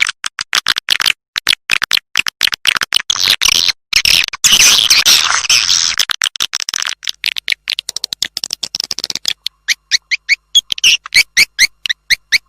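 Swiftlet lure call played back: dense, rapid chirping and twittering for several seconds, which settles in the last few seconds into an even run of short chirps, about four or five a second.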